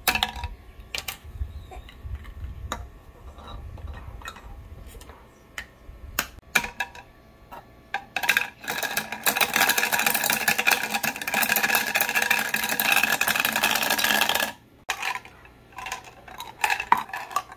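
Plastic toy fruit pieces clattering as they are handled and dropped into a toy blender jug, then the battery-powered toy blender whirring steadily for about six seconds before it cuts off abruptly.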